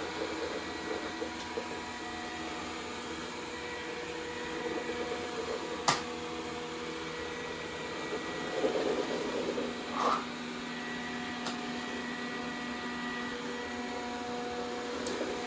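Dreame D10 robot vacuum running with a steady motor hum and whine. A few sharp clicks break through it, the loudest about six seconds in.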